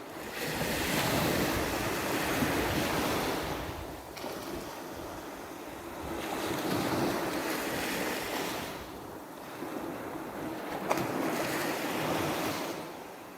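Small Black Sea waves splashing onto a beach, surging in and washing back three times, about every four seconds. A brief sharp click partway through the third surge.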